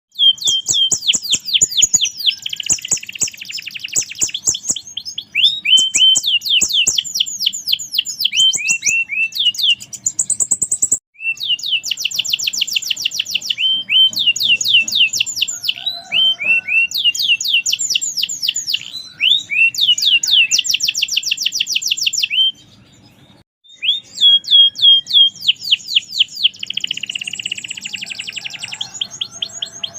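Merlok canary singing, long fast rolling trills of rapidly repeated sweeping notes. There is a short break about 11 seconds in and a longer pause a little over two-thirds of the way through.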